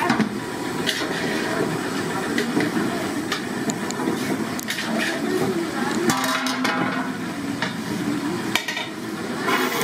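Metal cooking utensils knocking and scraping in a pan over a steady cooking noise, with many short clicks and knocks throughout.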